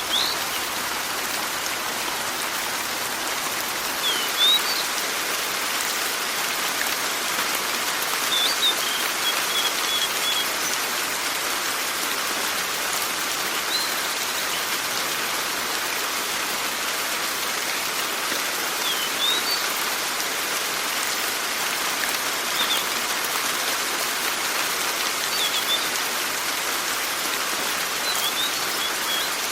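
Steady rain falling, an even hiss of drops. Short, high bird chirps come through it every few seconds.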